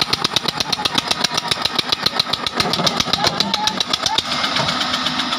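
Diesel engine of a heavy farm or construction machine running with a fast, even chugging beat. The beat turns smoother near the end.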